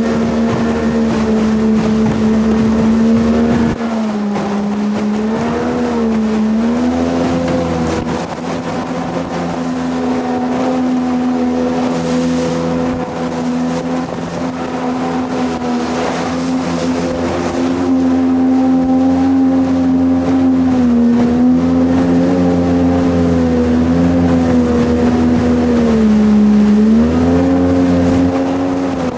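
Jet boat engine running steadily under way over a steady hiss, its pitch dipping briefly and coming back up a few times: around four to seven seconds in, about twenty-one seconds in, and again near the end.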